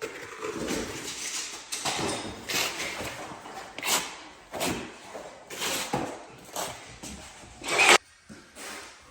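Floor-tiling work: a run of irregular scrapes and knocks, the loudest about four seconds in and just before eight seconds.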